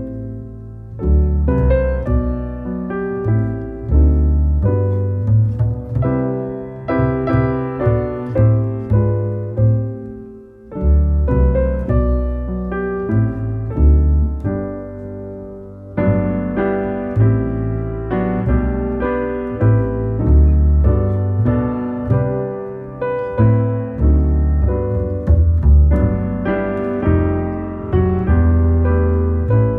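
Background piano music: a slow piece of struck chords and single notes over deep bass notes, each note swelling and fading, with a brief lull about ten seconds in.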